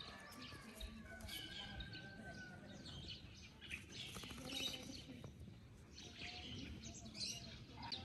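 Birds chirping faintly in the background, with many short high calls scattered throughout.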